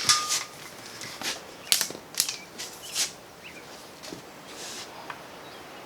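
Short rustling scrapes of a cord being handled while a knot is tied, about seven in the first three seconds, then only faint rustling.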